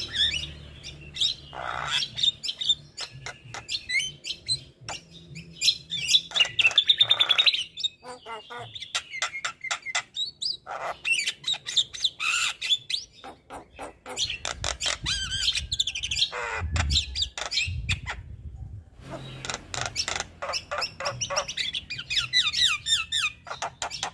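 Male Javan myna (jalak kebo) singing without let-up: a varied run of rapid clicking, chattering trills and short whistled notes, with brief pauses between phrases.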